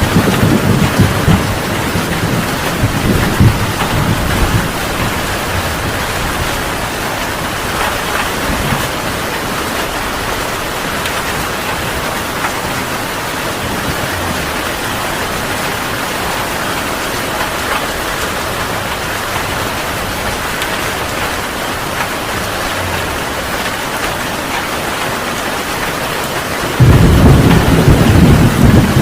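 Heavy rain falling steadily in a thunderstorm. A low thunder rumble dies away over the first few seconds, and a loud peal of thunder breaks in suddenly near the end.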